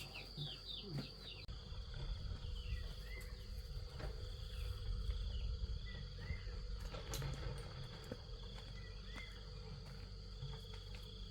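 Crickets or similar insects keeping up a steady high drone, with short bird chirps over it: a quick run of falling chirps in the first second or so, then scattered single chirps. A low rumble runs underneath.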